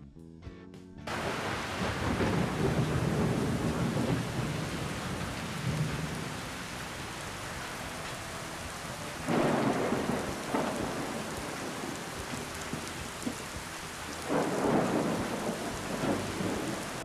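Heavy rain with thunder, starting abruptly about a second in as a steady hiss. It swells three times with deeper rumbles: the first soon after it starts, another near the middle and another near the end.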